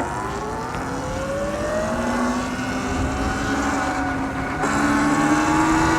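Sur-Ron Light Bee electric dirt bike's motor whining, rising in pitch as the bike accelerates and then levelling off. Wind noise on the microphone grows louder about two-thirds of the way in.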